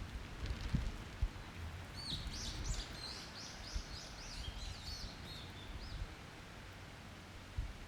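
A small songbird singing one rapid, high-pitched warbling phrase of about three seconds, starting about two seconds in, over a low steady background rumble.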